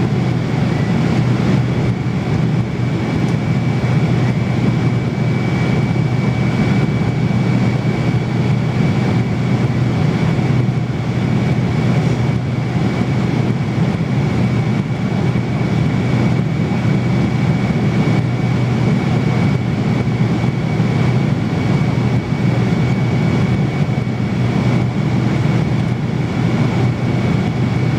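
Steady roar of cabin noise inside an airliner: engine and air noise with a faint, thin, high whine running through it.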